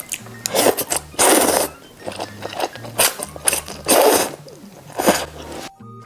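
Close-up eating noises: about five short, loud bites, crunches or slurps, over soft background music.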